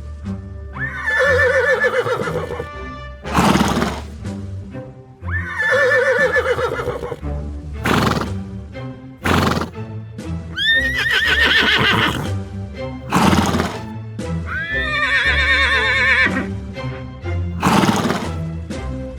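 A horse neighing four times, each whinny rising and then shaking, with short breathy bursts between the calls, over background music.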